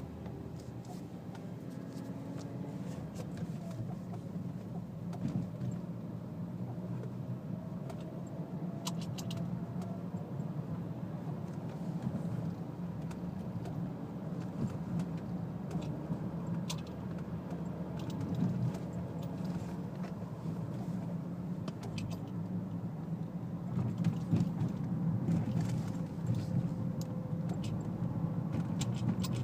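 Ford Focus ST driving, with steady engine and road noise and irregular short clicks and knocks rattling through it, a few at a time and more often near the end: the rattle and knock that shows up while the car is driven.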